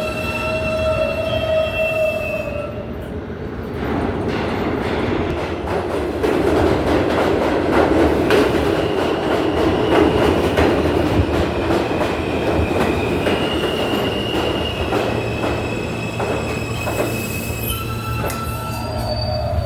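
New York City subway train running through an underground station. Its wheels squeal on the rails, with fast clattering over the rail joints and a heavy rumble that is loudest midway. The squeal returns near the end.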